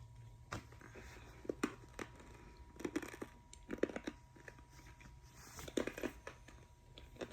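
Quiet room tone with a low steady hum, broken by scattered faint clicks and rustles about once a second.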